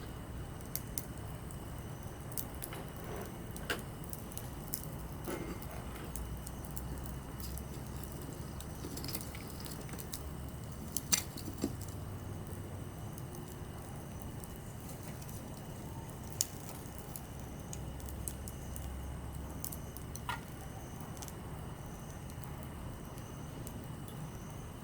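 Small campfire of softwood and hardwood logs burning, with scattered crackles and sharp pops over a steady low rumble. The loudest is a pair of pops about eleven seconds in.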